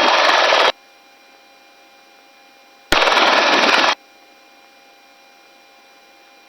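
Helicopter rotor and wind noise heard through a crew member's open intercom microphone, switching in and out abruptly: loud for the first moment, then a faint steady hum, then a second loud burst of about a second near the middle.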